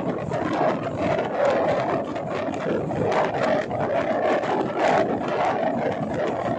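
Passenger train running on the line, heard from aboard an LHB coach: a steady rumble of wheels on rail with frequent rattles and clicks.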